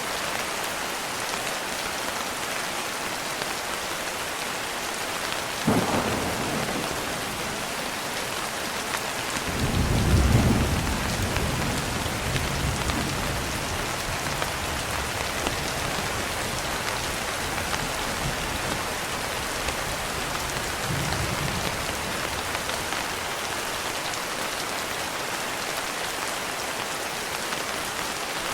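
Steady rain with thunder: a short crack about six seconds in, then a long low rumble rolling from about ten seconds in, and a fainter roll later on.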